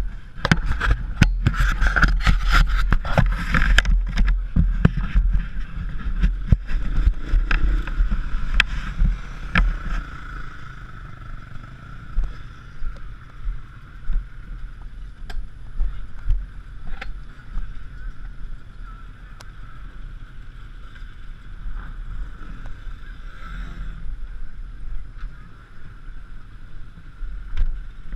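Yamaha YZ125 two-stroke motocross bike engine running steadily, with many sharp knocks and clicks over the first ten seconds.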